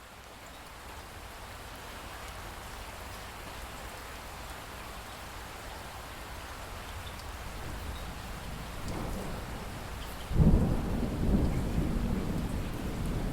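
Steady rain hissing and slowly growing louder, then a sudden loud roll of thunder about ten seconds in that keeps rumbling to the end.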